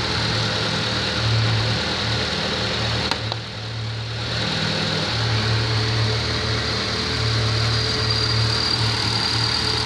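Car engine idling with its accessory belt wetted to quiet the belt's squeal; near the end a thin high whine grows stronger as the water dries and the squeal comes back, the sign of a belt not in its best condition.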